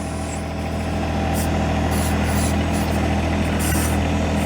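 John Deere 1025R compact tractor's three-cylinder diesel engine running steadily, with a few short high hissing sounds on top.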